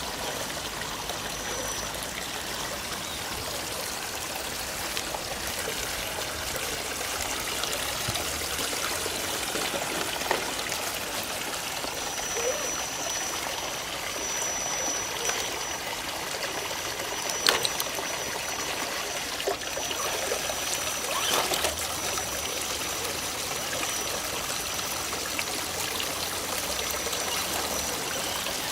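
Steady rush of flowing stream water, with a thin high whine that comes and goes and a few sharp clicks, the loudest about halfway through.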